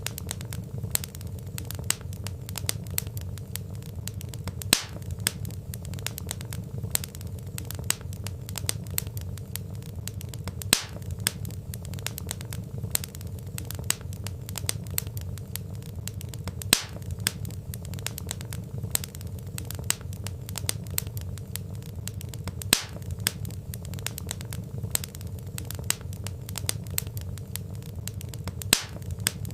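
Wood fire crackling: dense small snaps and ticks over a low steady rumble, with a louder pop at even intervals of about six seconds.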